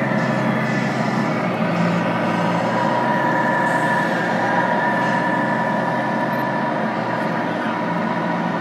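Tamiya 1/14 radio-controlled trucks' electronic sound units playing a steady diesel-truck engine drone, with people talking in the background.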